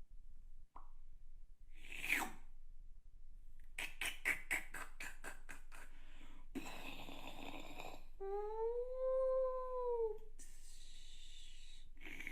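A person making vocal sound effects with mouth and voice, imitating kitchen sounds from a picture score: a quick falling swoop, a rapid run of about ten clicks, a hissing burst, then a hummed tone that rises and falls, then more hissing. The recording is of low quality.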